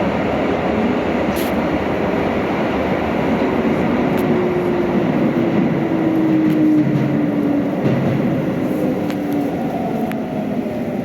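Keikyu 600 series electric train running on the rails, a steady rumble with a motor whine that falls slowly in pitch as the train slows. There are a few sharp clicks.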